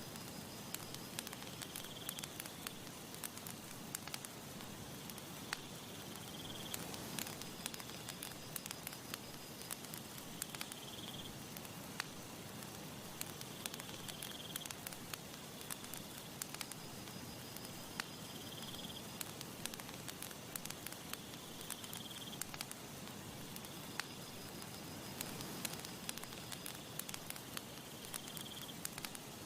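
Campfire crackling and popping steadily, with irregular sharp snaps over a soft hiss. A faint high-pitched trill recurs every few seconds in the background.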